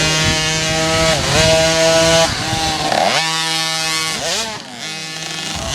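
Motocross bike engines revving hard, the pitch falling and climbing again about three times as the throttle is rolled off and back on, over the steady note of another engine.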